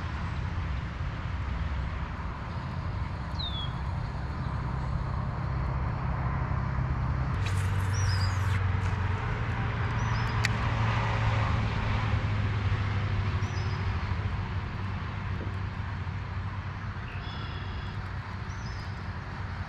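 A steady low motor drone under a constant outdoor hiss, with a few short bird chirps scattered through and a single sharp click about ten seconds in.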